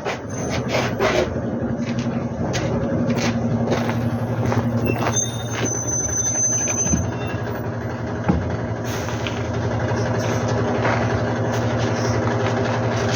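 Engine running steadily with an even low hum, with scattered light clicks and two sharper knocks about seven and eight seconds in.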